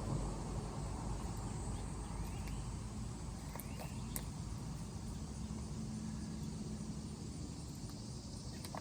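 Outdoor background: a low, steady traffic rumble that slowly fades, with a couple of faint bird chirps and a sharp click about four seconds in.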